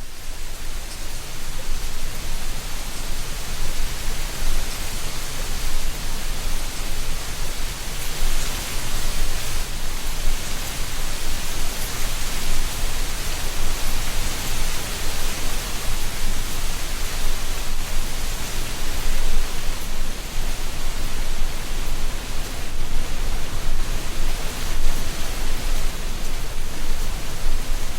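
Wind blowing through a tree canopy, rustling dry leaves: a steady rushing hiss with a low rumble underneath.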